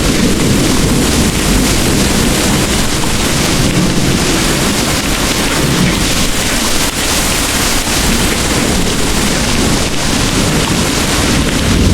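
Heavy rain pouring steadily, a dense even hiss with a deep low rumble underneath.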